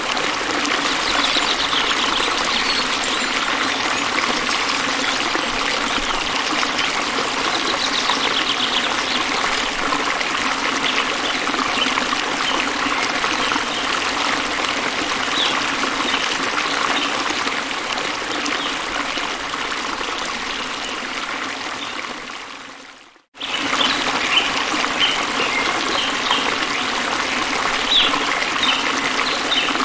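Steady running water of a stream or trickle, with brief high chirps over it. About three-quarters of the way through, the sound fades out to silence and then comes straight back.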